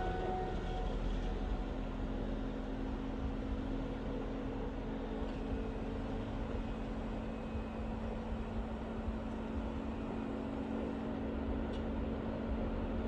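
Off-road vehicle engine running steadily with a constant low drone, engine speed holding even throughout.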